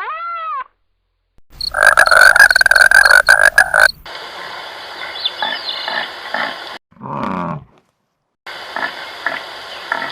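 A series of different animal calls cut one after another. It starts with a short call that rises and falls in pitch, then a loud buzzing stretch, a short call falling in pitch, and noisy stretches with scattered clicks between them.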